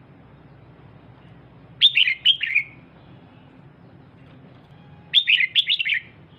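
Female red-whiskered bulbul calling: two short bursts of quick, high chirping notes, about three seconds apart, each lasting under a second. This is the call keepers play to excite male bulbuls.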